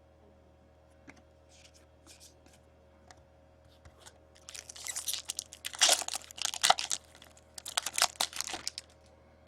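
Crinkly wrapper being crumpled and torn, in two bursts in the second half after a few faint ticks and rustles; typical of a trading card pack wrapper being handled and ripped open.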